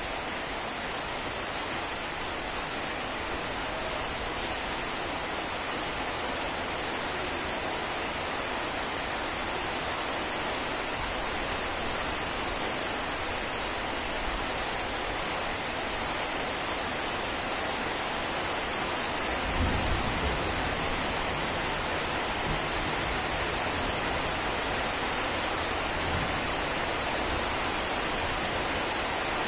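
Rain falling steadily on garden foliage and ground, a dense, even hiss that grows slightly louder. A brief low rumble comes about two-thirds of the way through.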